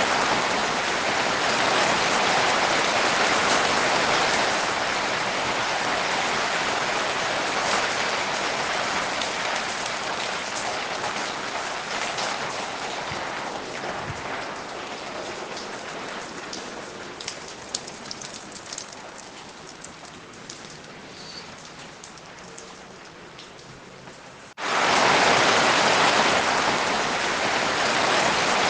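Steady rain that eases off gradually over about twenty seconds, so that single drips can be picked out as it thins, then cuts back suddenly to full heavy rain near the end.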